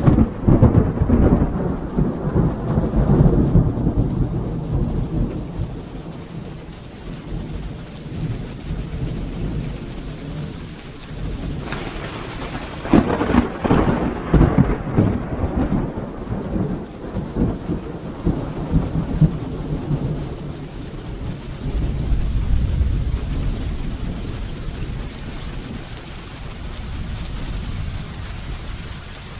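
Thunderstorm: rain falling steadily, with a thunderclap right at the start that rumbles away over several seconds. A second crackling clap comes about twelve seconds in and rolls on, then a deep low rumble swells up a little past twenty seconds.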